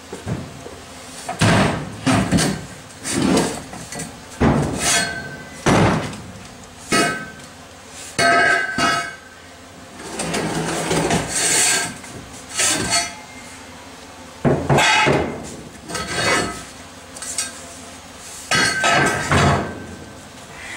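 Irregular metal bangs and clanks, roughly one every second or two, some leaving a short metallic ring, with a longer scraping rattle midway.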